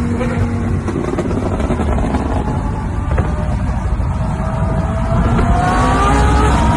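Exotic sports car engine and exhaust running loud, then climbing in pitch and getting louder over the last couple of seconds as it revs and accelerates.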